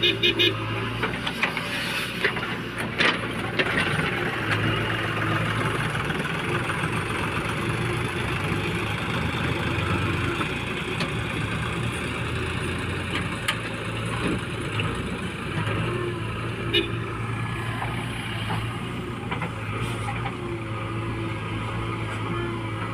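Heavy diesel machinery engine running steadily at work, with a few sharp knocks or clicks over it.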